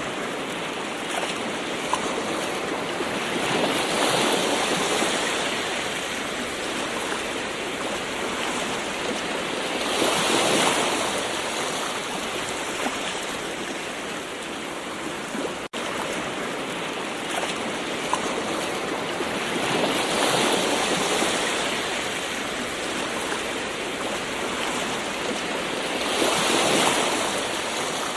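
Ocean waves washing ashore: a steady surf hiss that swells four times as waves break and wash in. A split-second gap in the sound falls a little past halfway.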